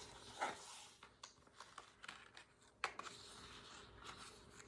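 Faint paper handling over quiet room tone: a soft rustle of book pages about half a second in and one sharp tap a little before three seconds.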